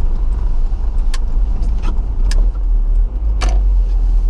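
A 1997 Nissan pickup driving on a snowy, icy road: a steady low rumble of engine and road noise, with a few sharp clicks or rattles about a second apart.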